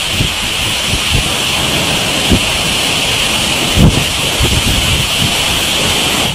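Heavy rain hissing steadily, with wind buffeting the microphone in irregular low thumps, the strongest about four seconds in.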